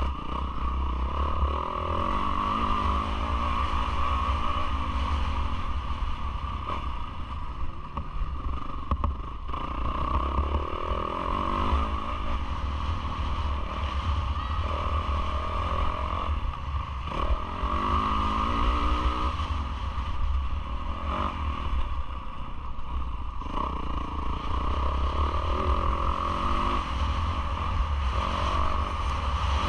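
Yamaha YZ450F four-stroke single-cylinder motocross engine under race load, the revs climbing and dropping again and again through the gears. It is heard from a GoPro on the bike with a constant rush of wind and clattering over the rough track.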